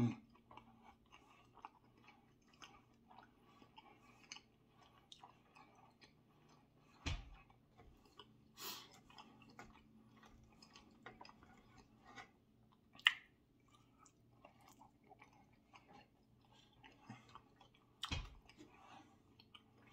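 Quiet, close chewing of a mouthful of grilled steak, with many faint clicks of the mouth. A few louder knocks, about 7 and 18 seconds in, from the knife and fork on the wooden cutting board.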